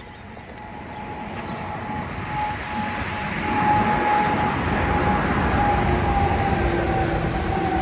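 Passing traffic noise swelling over about four seconds and then holding loud, with a steady whine running through it that drifts slightly lower.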